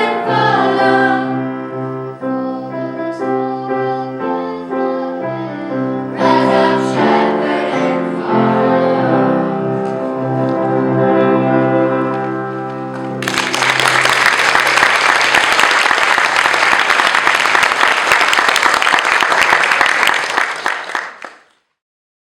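Choir singing the final phrases of a piece, ending on held chords. About thirteen seconds in, audience applause breaks out suddenly, runs for about eight seconds, then cuts off.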